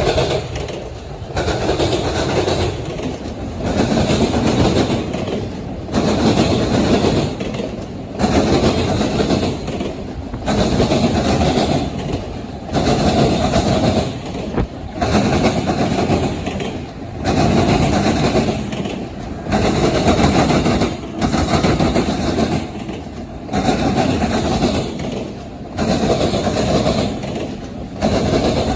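CSX freight train cars rolling past, their wheels rumbling and clattering on the rails. The sound swells and dips in a steady rhythm about every two seconds as car after car goes by.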